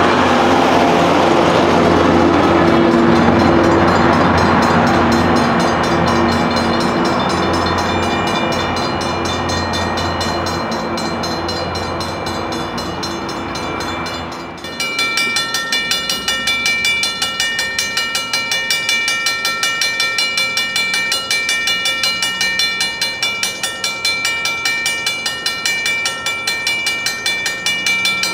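Commuter train rolling past at close range, the passing train loud and rushing. About halfway through the sound cuts abruptly to another pass of the train, with the cars clacking rhythmically over the rail joints under steady high ringing tones.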